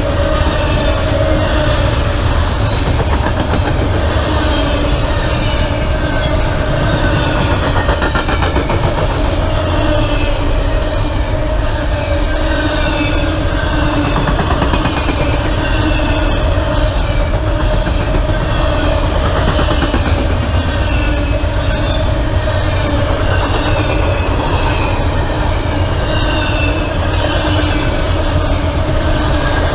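Freight train rolling past steadily: a loud, constant low rumble with a steady hum, and a string of short, falling high-pitched wheel squeals about once a second.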